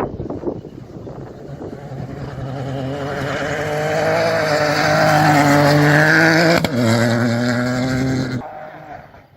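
Rally car approaching at full throttle, its engine note building louder, then a sharp crack of an upshift about two-thirds of the way through, after which the engine pitch drops and it pulls on. The sound cuts off suddenly near the end.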